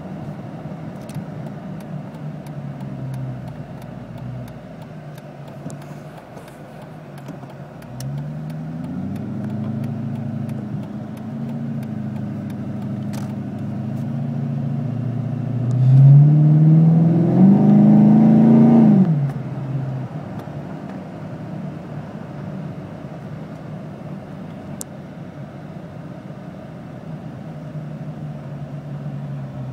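Supercharged 5.7-litre Hemi V8 of a 2006 Dodge Charger with an SLP Loudmouth II cat-back exhaust, heard from inside the cabin. It cruises at low revs, picks up a little about eight seconds in, then takes a hard burst of throttle about sixteen seconds in: the note climbs fast and loud for some three seconds, then cuts back suddenly to a low cruise as the throttle is released.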